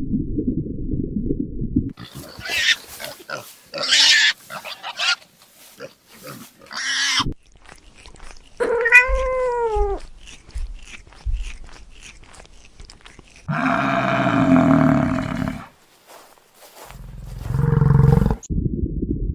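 A series of separate animal calls: a few noisy bursts, then one call that rises and falls in pitch, then two longer, lower calls.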